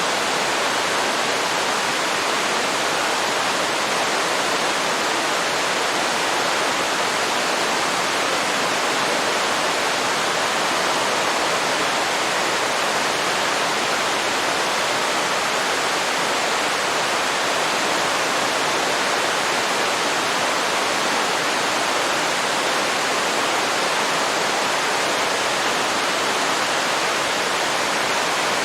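Waterfall at the end of a river: a steady, even rush of falling water.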